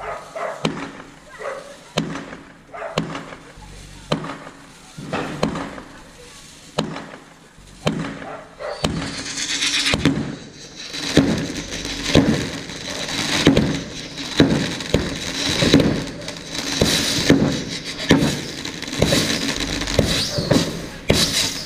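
Fireworks going off in quick succession: repeated sharp bangs and cracks, joined about nine seconds in by a continuous hissing crackle with a thin high tone that runs on under the bangs.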